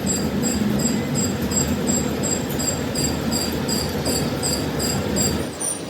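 Steady workshop machine noise, most likely a lathe or other machine tool working the crankshaft, with a regular high-pitched chirp about three times a second.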